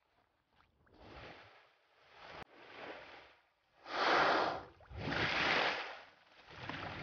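Water sloshing and splashing around bowhead whales moving at the surface, in several rising and falling swells of noise, the loudest two about four and five seconds in.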